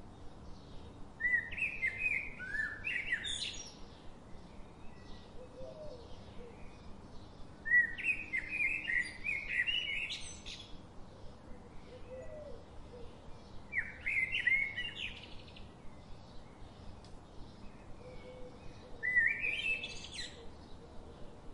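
A songbird singing: a quick warbling phrase of about two seconds, given four times roughly six seconds apart, over faint steady background noise with small rapid ticks.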